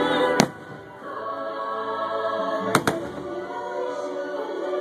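Fireworks show music with a choir singing, broken by sharp fireworks shell bursts: one loud bang about half a second in, then two bangs in quick succession just under three seconds in.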